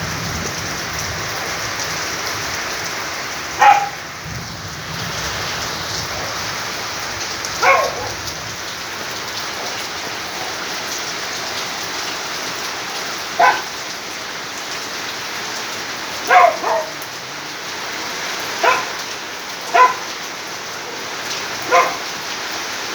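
Steady heavy rain falling, with a dog barking now and then: single short barks every few seconds, about eight in all, louder than the rain.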